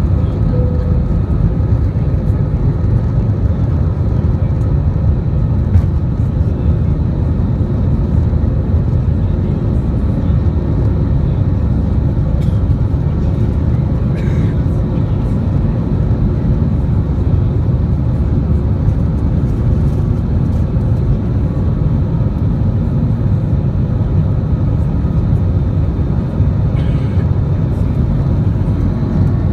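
Airbus A320 cabin noise: a steady low rumble of the jet engines and airflow, with a few faint steady tones and no change in power.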